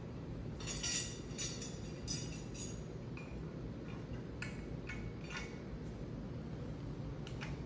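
Loose hardware of a bird feeder station, its hooks and fittings, clinking and clicking irregularly as it is handled and fitted together, over a steady low background hum.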